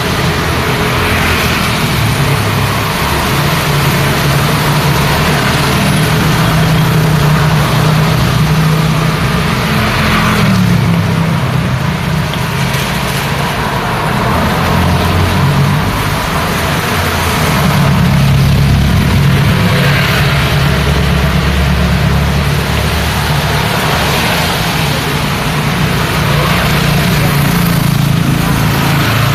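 Road traffic in the rain: vehicle engines humming and tyres hissing on the wet road over a steady rain hiss, swelling several times as vehicles pass.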